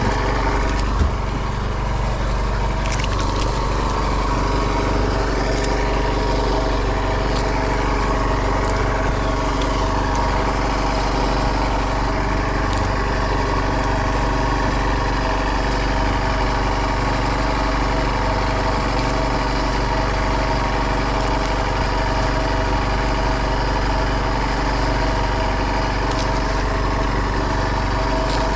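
Small fishing boat's engine running steadily at constant speed.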